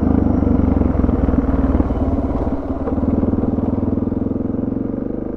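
Suzuki DR650 single-cylinder motorcycle engine running steadily while the bike is ridden along.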